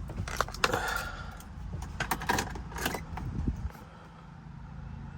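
Car keys jangling with a scatter of sharp clicks and knocks over the first few seconds, then only a faint steady low hum.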